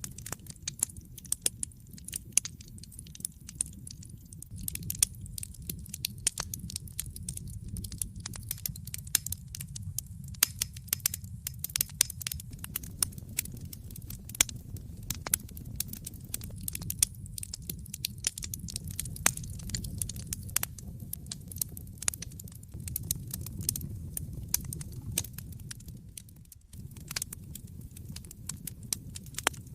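Wood fire in a fireplace crackling: irregular sharp pops and snaps over a low steady rumble of the burning logs, the rumble dropping out briefly near the end.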